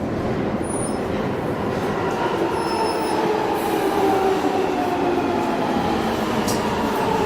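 London Underground 1996 Stock train running on the track, heard from inside the carriage, with a whine from the traction motors that falls slowly in pitch as the train slows.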